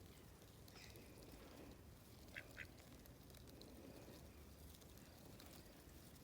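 Faint, soft quacking of mallard ducks, with two short high calls in quick succession about two and a half seconds in.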